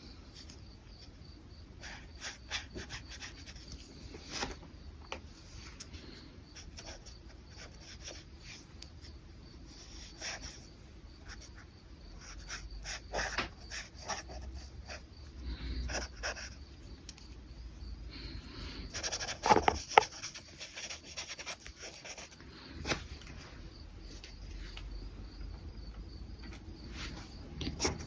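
Brush pen strokes on paper: soft scratching and rubbing in short, irregular strokes, with now and then a light tap. The loudest moment is a couple of short knocks about two-thirds of the way through.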